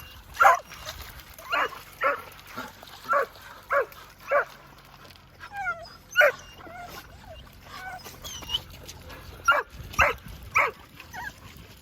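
Excited dogs barking and yelping, about a dozen short sharp barks with a few whines in the middle.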